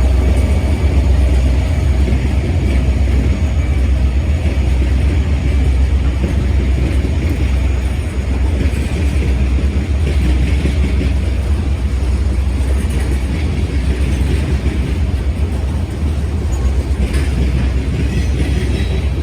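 BNSF freight train rolling past, its cars making a steady, heavy low rumble.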